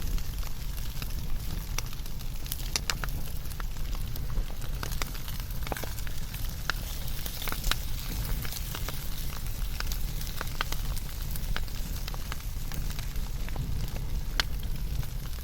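Wood fire burning with a steady low rumble and hiss, and frequent sharp, irregular crackles and pops.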